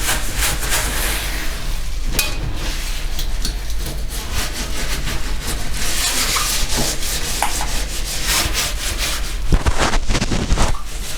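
A damp Aqua Magic Absolute cleaning cloth scrubbing a greasy gas stovetop with quick back-and-forth rubbing strokes. A few sharper knocks come near the end.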